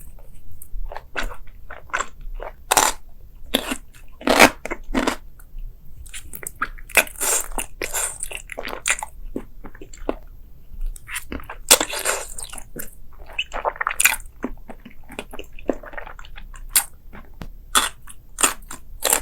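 A person biting and chewing crunchy food: an irregular run of crisp crunches and crackles with no steady rhythm.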